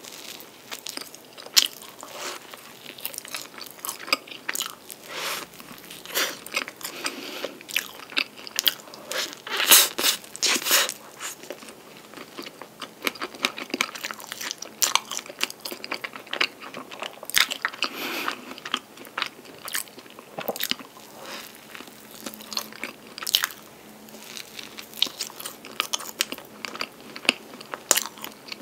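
Close-miked mukbang eating of a flaky strawberry-and-cream filled pastry: irregular crisp crunching and crackling bites and chewing, loudest about ten seconds in.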